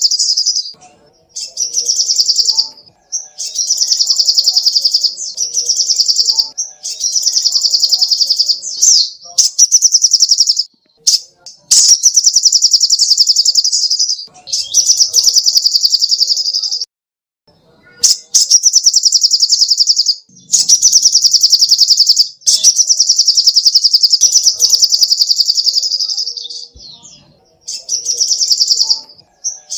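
Sogoh ontong, a small sunbird, singing: loud, high, very fast trills in phrases of one to two seconds, repeated one after another with short pauses.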